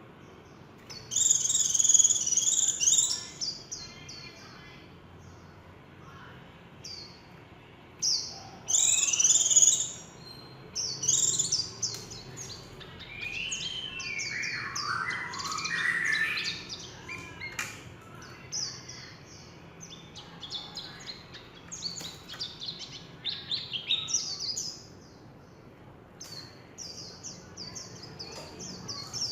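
White-eye singing a fast, high-pitched twittering song in bursts of a few seconds with short pauses, including a run of lower sliding notes about halfway through. It is the trilling 'líu' song that keepers train these birds for.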